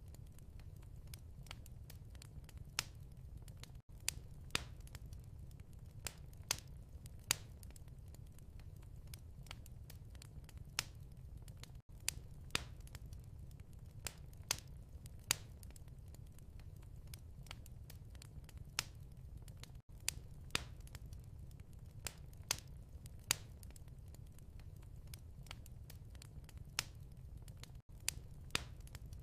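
Wood fire crackling in a fireplace: irregular sharp pops and snaps over a steady low rumble, with a brief drop-out about every eight seconds.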